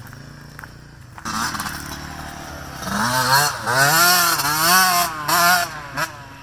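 Small engine of a Polaris Outlaw 110 youth quad, revving up and down over and over as it is ridden, its pitch rising and falling about every half second. It gets louder about a second in and is loudest in the second half.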